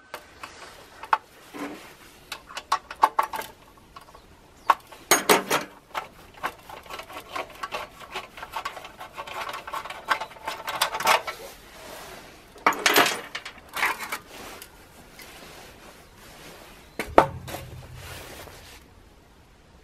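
Irregular metallic clinks, clatters and knocks of tools and metal parts being handled, with a heavier knock near the end.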